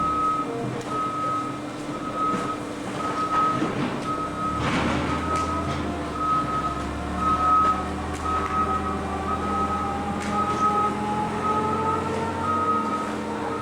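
Backup alarm beeping steadily, about one beep a second, over the hum of running machinery. A clatter comes about five seconds in, and a mechanical whine then slowly rises in pitch.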